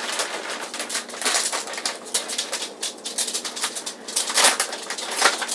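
A plastic bag of pet treats crinkling and rustling as it is handled and opened, in a rapid, irregular run of crackles.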